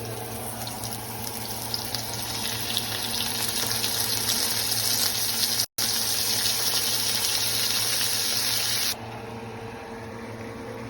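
Marinated chicken pieces sizzling in a hot pan, a steady hiss that grows louder over the first half. It breaks for an instant just past halfway and turns much quieter near the end.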